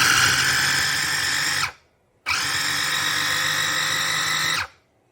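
Kenwood CH180B 300 W mini chopper motor running in short bursts: two bursts of about two seconds each, each whining up to speed and cutting off sharply, with a third starting near the end.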